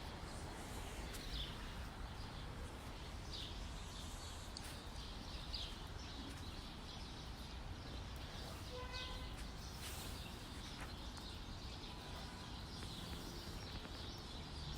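Outdoor ambience: scattered short bird chirps over a steady low background of outdoor noise, with one short, lower call about nine seconds in.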